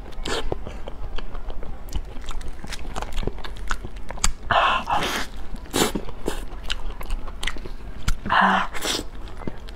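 Close-miked wet chewing and lip-smacking of soft, creamy durian flesh. There are a few louder wet smacks about halfway through and again near the end.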